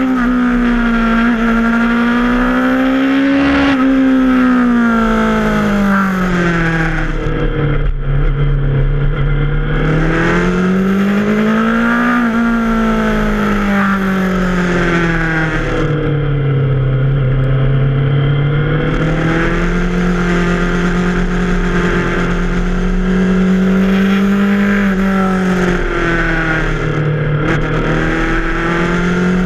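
Yamaha FZ6R inline-four motorcycle engine under way, its pitch climbing under throttle and dropping back as the throttle is rolled off, over and over, about five times.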